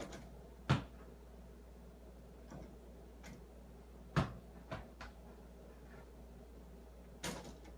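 A few light knocks and clicks at uneven intervals over a quiet background, the loudest about a second in, halfway through, and near the end.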